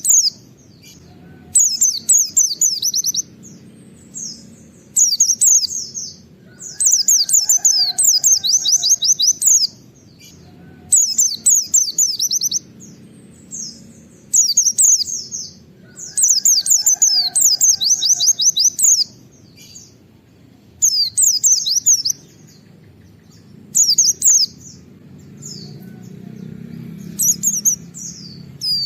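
A white-eye (pleci) singing its fast 'nembak' song in repeated bursts of rapid, sharp, high notes, each burst a second or two long with short pauses between. A low, steady background noise runs underneath.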